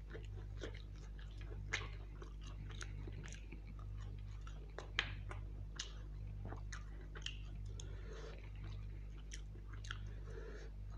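Close-miked chewing and wet mouth sounds of a person eating mutton curry with luchi, with scattered sharp clicks; the loudest come about 2 and 5 seconds in. A steady low hum runs underneath.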